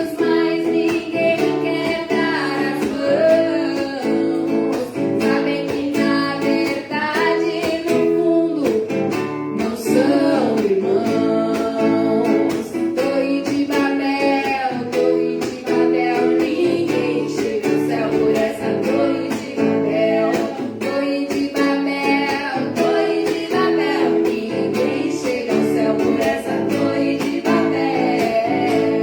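Live music: guitar strummed in a steady rhythm, with a wavering melody line over it.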